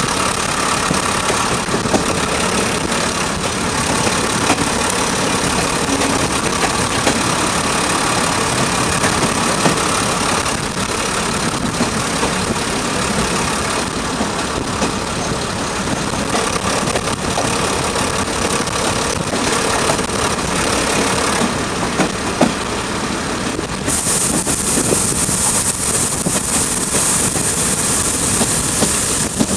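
Diesel multiple unit running along the line, heard from an open window: a steady mix of engine, wheel-on-rail noise and wind rush, with the wind hiss growing sharply louder about 24 seconds in.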